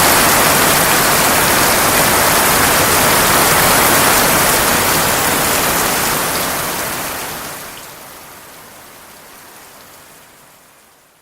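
Heavy tropical downpour, a steady dense hiss of rain. It fades away gradually over the last four seconds or so.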